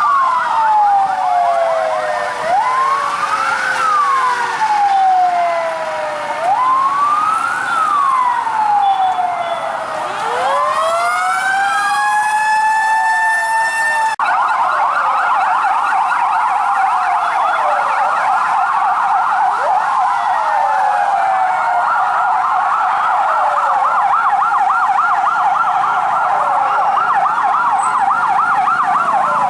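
Several fire truck sirens sounding at once: wailing tones that rise and fall about every four seconds. Around ten seconds in, one siren winds steadily up in pitch. From about fourteen seconds a fast, rapidly warbling yelp siren joins the slower wails and dominates.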